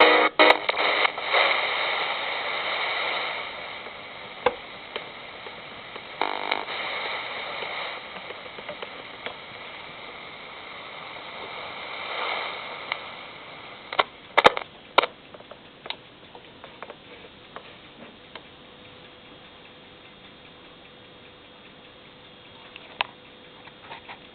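Small Poppy Sound radio receiver giving off static hiss between stations as the music cuts off, the hiss swelling and fading with a few sharp clicks and crackles. A faint steady whistle sits under the hiss in the second half.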